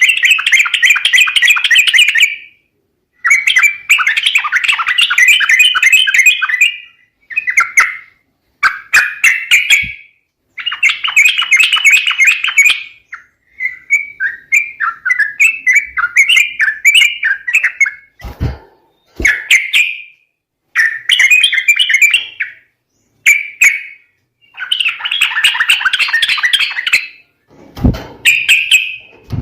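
Yellow-vented bulbul (trucuk) lure recording: bursts of bubbly, chattering calls a second or two long, repeated with short gaps. A few low knocks come in about two-thirds of the way through and near the end.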